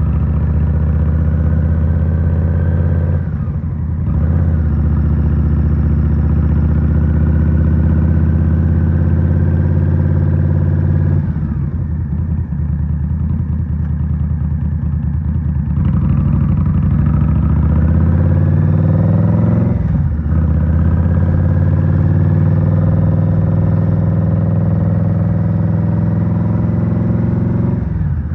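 2023 Indian Scout Rogue's 69 cu in V-twin running through a Rinehart slip-on exhaust under way. It pulls up through the gears, the pitch climbing and then dropping at each shift, with a lower, easier stretch near the middle.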